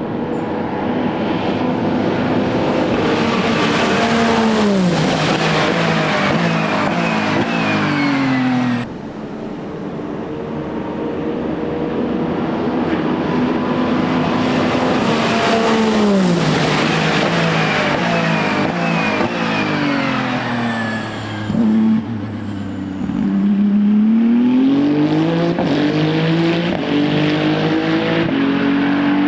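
Ferrari 499P hypercar's 3.0-litre 120° twin-turbo V6 at racing speed on track. Its note drops as the car passes and brakes, coming down in steps through downshifts. This happens twice, in two separate passes. Near the end the pitch climbs in stages as it accelerates through upshifts.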